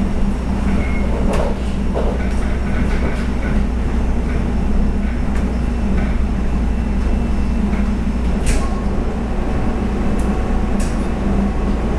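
Running noise inside the cabin of a Taiwan Railway EMU700 electric multiple unit at speed: a steady low rumble of wheels on rail with an even hum, broken by a few sharp clicks, the loudest about eight and a half seconds in.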